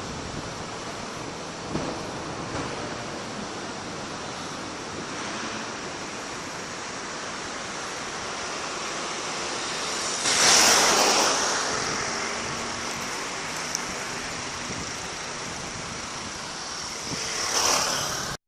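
Fireworks display heard as a steady noisy hiss, with two louder noisy bursts about ten and seventeen seconds in.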